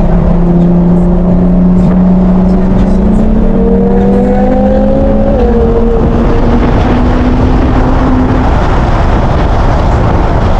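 Inside the cabin of an Infiniti with the 3.0-litre twin-turbo V6 (VR30) cruising on the highway, the engine note rising steadily under acceleration over heavy road and wind noise, with a brief dip in pitch about halfway through.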